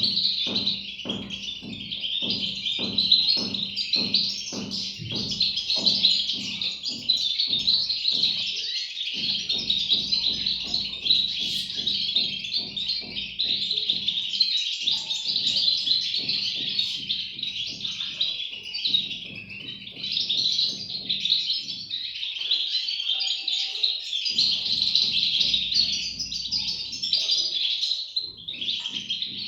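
A brood of European goldfinch chicks calling without a break, a dense, high, overlapping chirping. A regular low pulsing runs beneath it for the first several seconds and returns later on.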